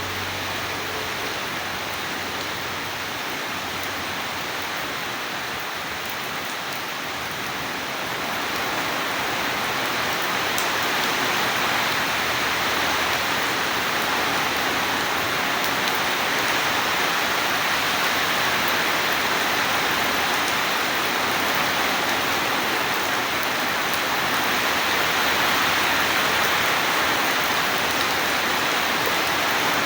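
Rain falling steadily, getting louder about ten seconds in and then holding at that level.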